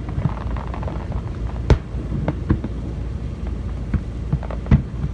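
Fireworks going off: irregular sharp bangs and cracks, the loudest under two seconds in, over a steady low rumble.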